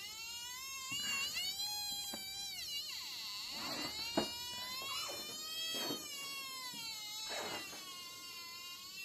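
RF radiation meter's audio signal: a continuous whining buzz made of several tones together that waver slowly up and down in pitch, with a few faint clicks.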